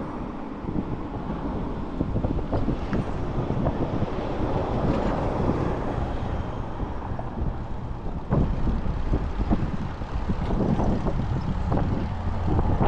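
Wind buffeting the microphone during a ride on an electric Citi Bike, a steady low rumble of rushing air.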